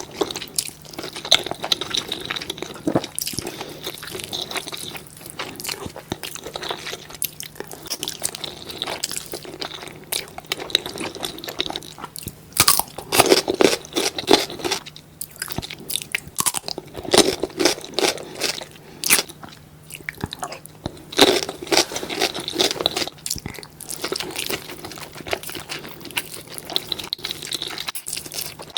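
Close-miked eating: steady chewing with crisp crunching bites, the crunches coming in louder clusters about 13, 17 and 21 seconds in.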